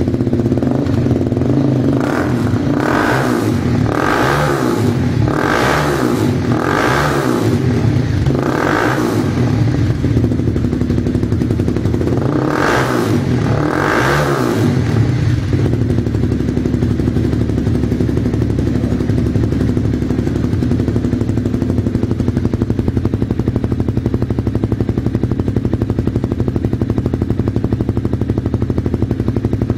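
Honda CBR250R's single-cylinder engine breathing through an aftermarket Bizumo exhaust, idling and blipped. A run of quick throttle blips in the first nine seconds, two more a few seconds later, then settles into a steady idle.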